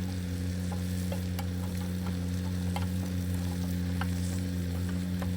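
Steady drone of a Bobcat loader's engine running in the background, with a few faint light clicks over it.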